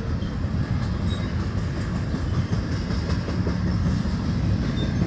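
Double-stack intermodal well cars of a freight train rolling past. Steel wheels on rail make a steady, loud rumble with scattered clicks and rattles.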